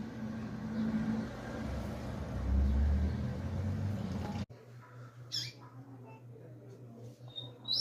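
A steady low rumble that cuts off abruptly a little over halfway through. Then a double-collared seedeater (coleiro) gives a brief high chirp and begins short high notes near the end.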